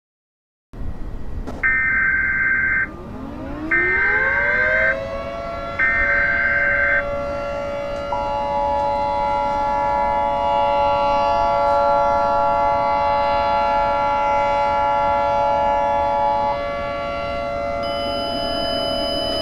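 Simulated Emergency Alert System sounds: three short screeching data bursts of the alert header, while a civil defense siren winds up and settles into a steady wail. About eight seconds in, a steady two-tone attention signal joins the siren and stops a few seconds before the end, when higher steady tones come in; together they signal an incoming emergency alert.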